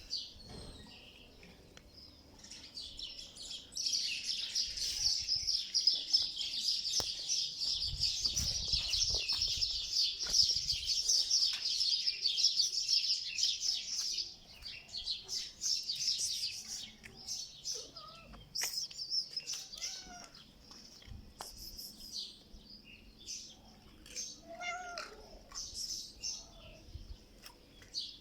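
A cat vocalizing, with a few short meow-like calls in the second half. A dense, high-pitched chirring hiss dominates from about four seconds in to about fourteen seconds in.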